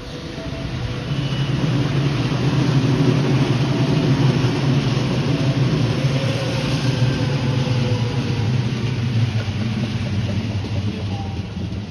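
A JR West commuter electric train passing close by with a loud, steady running rumble and a low drone. The sound swells over the first couple of seconds and eases slightly near the end as the cars go past.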